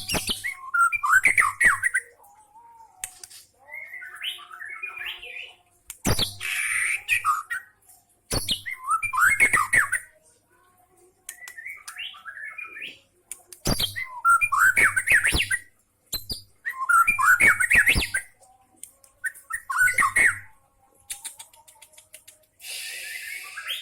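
White-rumped shama singing in loud phrases of a second or two with short pauses between them, its song mixing in imitations of lovebird and prinia calls.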